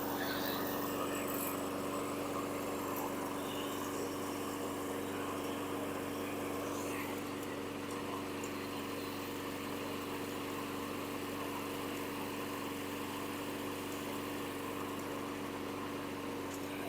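Husqvarna LC221A walk-behind lawn mower engine running at a steady speed during a test run after a carburetor and drive-cable service.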